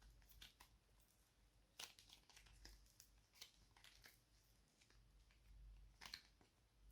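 Faint, sparse sticky clicks and crackles of slime being handled, with a sharper click about two seconds in and another near six seconds.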